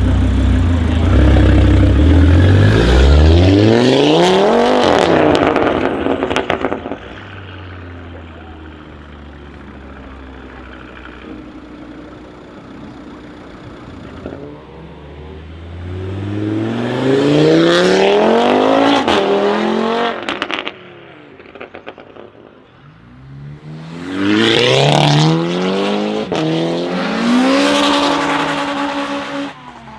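Straight-piped Audi RS3's five-cylinder turbo engine accelerating hard three times, its pitch climbing steeply each time, with a quieter steady hum between the first two runs. It pops and crackles as the revs fall after the second run, the sound of its crackle map.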